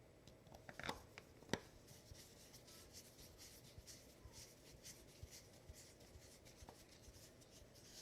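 Faint scratching and rubbing with many light clicks, and two sharper clicks about one and one and a half seconds in.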